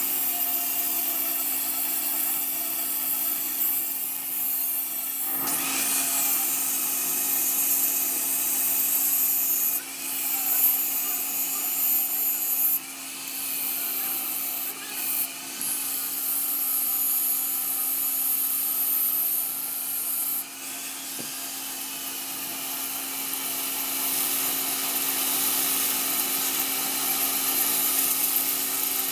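A workshop machine or power tool running steadily with a constant hum and a high hiss. The sound changes abruptly several times, at about five, ten, thirteen and twenty seconds in.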